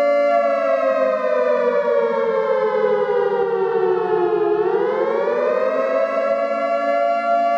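A siren's steady wail that sinks in pitch over about four seconds, then rises back to its steady tone.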